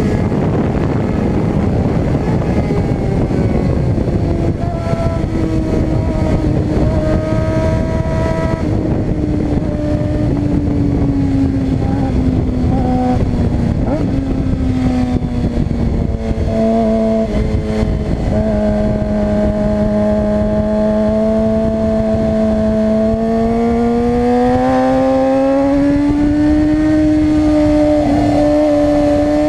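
Suzuki GSX-R 600 inline-four sport bike engine running hard on track. Its pitch falls over the first few seconds, holds lower through the middle, then climbs again near the end and holds. A heavy rush of wind noise runs under it, strongest early on.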